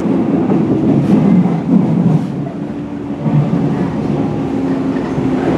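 JR West 103 series electric train running, with a steady hum from its traction motors and occasional clicks from the wheels.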